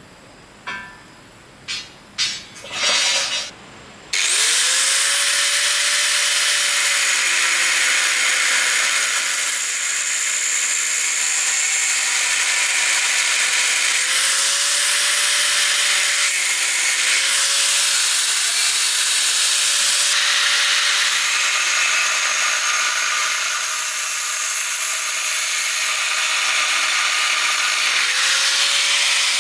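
A handheld electric power tool working wood starts up about four seconds in, after a few short bursts, and runs on with a loud hiss over a steady motor whine. The whine dips in pitch briefly several times as the tool bogs under load.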